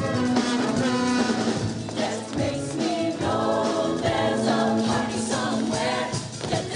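Show choir singing over an instrumental backing with drum kit.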